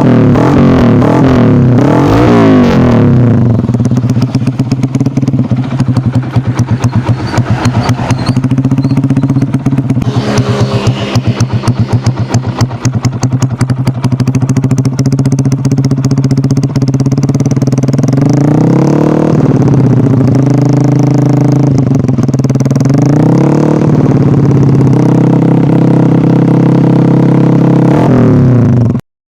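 Yamaha Jupiter Z four-stroke motorcycle engine running through a DYN racing exhaust silencer: idling with short throttle blips at the start and a few more revs in the second half, the idle turning choppy with distinct exhaust pulses in the middle. The sound cuts off suddenly just before the end.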